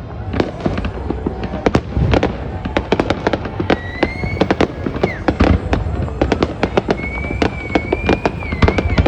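Fireworks going off in rapid succession: a dense run of sharp bangs and crackles, several a second, over a low rumble. A wavering high whistle rises and falls twice, about four seconds in and again near the end.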